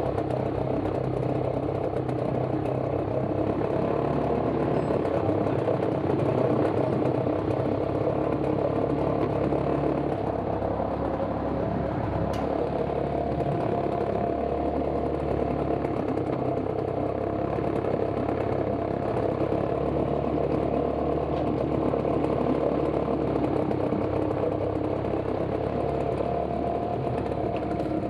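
Parsun 3.6 HP outboard motor running steadily.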